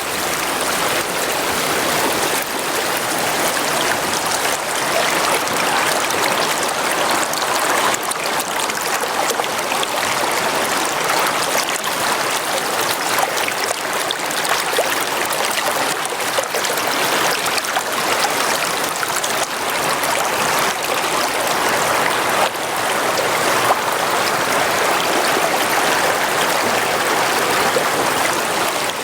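Brook water flowing in a steady, even rush.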